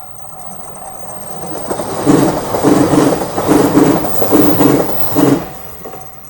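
Electric local train passing close by a level crossing. It builds up, then runs by loudly for about three seconds, its wheels clacking over rail joints in quick pairs, and dies away quickly. The crossing's warning bell keeps ringing in a steady pulse, about twice a second, and is heard again once the train is past.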